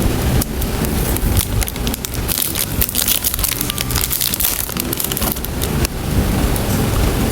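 Plastic packaging crinkling and crackling as it is handled and unwrapped, a dense run of irregular sharp crackles.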